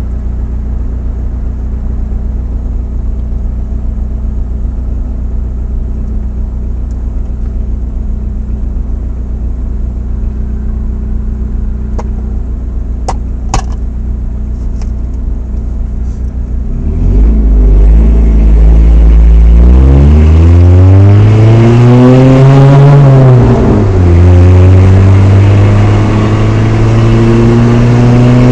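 Chevrolet S10's 2.2 L four-cylinder through a Flowmaster dual exhaust, heard from inside the cab: a steady low idle with a few faint clicks, then about two-thirds of the way in it gets much louder and revs up under load. The revs drop sharply at a gear change and climb again in the next gear. The owner says a slight exhaust leak near the stock manifold may add some hiss.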